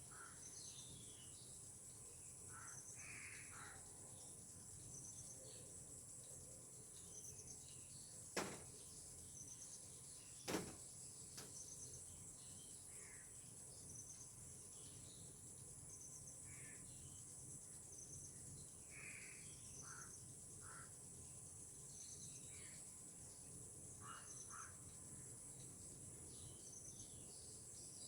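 Faint tropical outdoor ambience: insects keep up a continuous high drone with a regular pulsing chirp, while birds call briefly now and then, some of them crow-like caws. Two sharp clicks stand out about eight and ten and a half seconds in.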